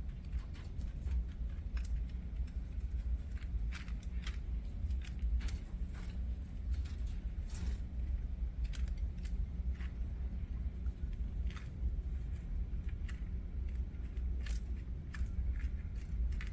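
Budgerigars giving many short, sharp chirps at irregular intervals, over a steady low hum.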